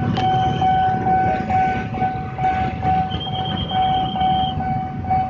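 Gaya Baru Malam Selatan passenger train passing at speed, wheels and coaches rumbling on the rails. Over it runs a steady high tone broken by short gaps about twice a second.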